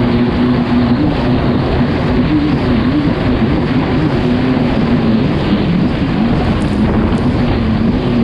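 Kawasaki STX 160 personal watercraft's four-stroke four-cylinder engine running hard under way. Its pitch swings up and down a little as the throttle and load change, over a loud rush of wind and water noise.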